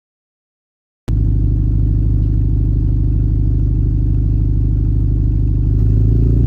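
Subaru Impreza WRX STI (GRB) flat-four engine idling steadily through an aftermarket BE FREE muffler, with a deep exhaust note. It starts abruptly about a second in and gets slightly louder near the end.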